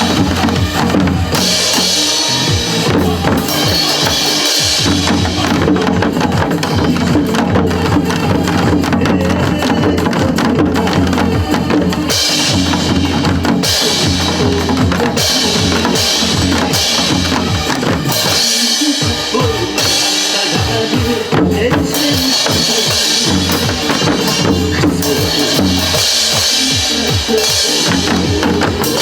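Janggu, Korean hourglass drums, played together by a group in a steady, dense rhythm over recorded trot-song music.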